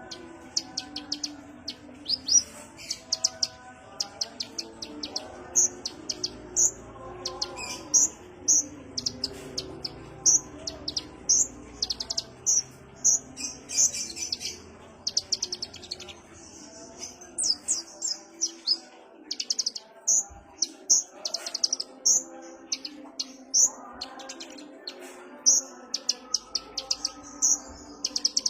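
Van Hasselt's sunbird (kolibri ninja) singing: a continuous string of high, sharp chirps and quick twittering runs, a loud note every half-second or so.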